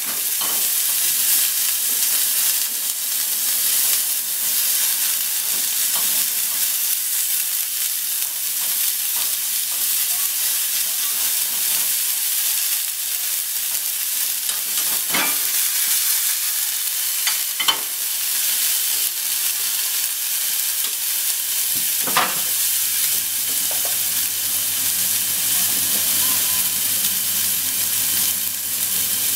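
Minced meat sizzling as it fries in a nonstick frying pan, stirred with wooden chopsticks that click against the pan a few times. A low steady hum comes in about three-quarters of the way through.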